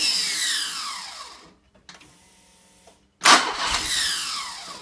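Mercedes-Benz M102 four-cylinder petrol engine in a C123 230 CE being cranked in short tries: each starts abruptly and dies away over about a second and a half with a falling whine, the second about three seconds in. The engine fires briefly, trying to catch, but does not start.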